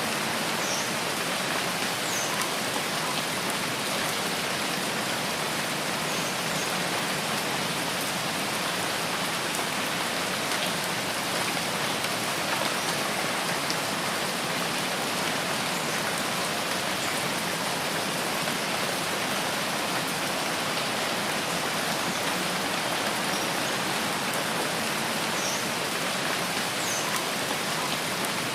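Steady rainforest rain, an even hiss that does not let up, with a few faint short high chirps now and then.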